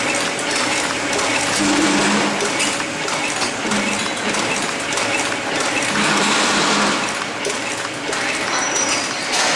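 Tea packaging machine running, with a steady mechanical clatter of rapid fine clicks and brief low hums about every two seconds.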